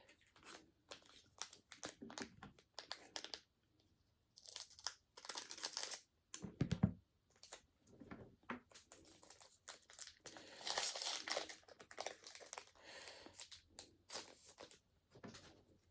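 Plastic and foil packaging from Pokémon booster packs and card sleeves crinkling as they are handled, in uneven bursts with longer spells around five and eleven seconds in, and a dull thump about seven seconds in.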